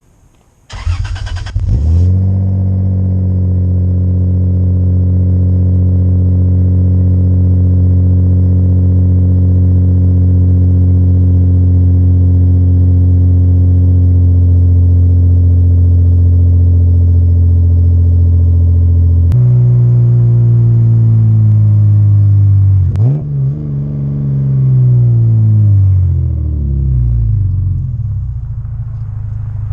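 Lexus SC300's inline-six with a Blitz Nur Spec-R exhaust: the starter cranks for about a second, the engine catches, then it runs at a steady fast cold-start idle. About two-thirds of the way in the idle note shifts, and soon after one quick throttle blip rises and falls away as the idle settles lower.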